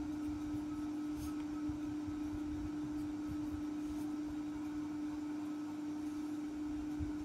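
A steady low hum on a single even tone, with a few faint ticks.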